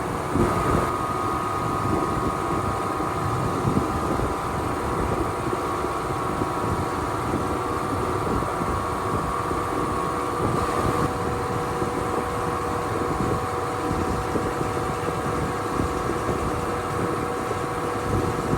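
A machine running steadily: an even mechanical hum with several held tones.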